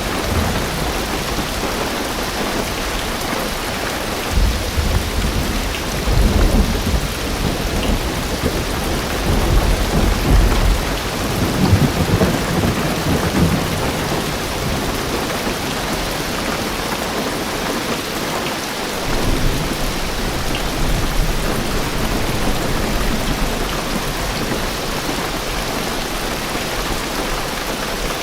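Heavy rain drumming steadily on a car's roof and windows, heard from inside the car. A long low rumble of thunder rolls from about four seconds in to about fourteen seconds, with a shorter rumble near twenty seconds.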